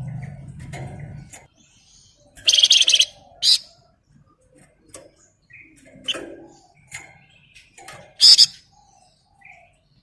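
Flamboyan songbird singing in short, dense, high-pitched trill bursts, the loudest about two and a half seconds in and again near the end, with soft scattered chirps between them. A low hum stops about a second in.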